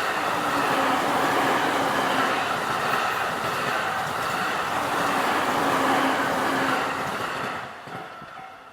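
An electric train running past close by, its steady rail and running noise dying away near the end. As it fades, the repeating tone of the level-crossing warning bell comes through.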